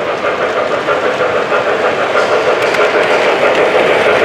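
Model train running along the layout's track, a steady rolling whir that grows slightly louder toward the end as it comes closer.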